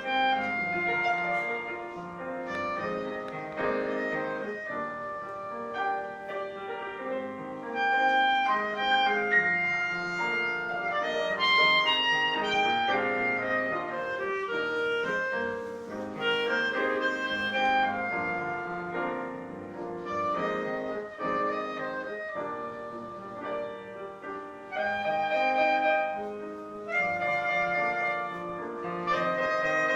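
A duo playing: a held, singing melody line over piano accompaniment.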